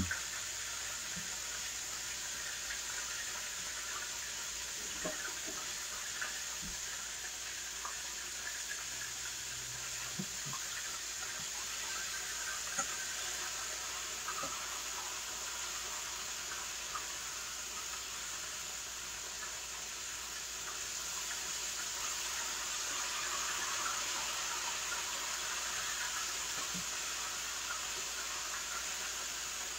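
Chicken wings frying in hot oil: a steady sizzle, with a few faint clicks of utensils.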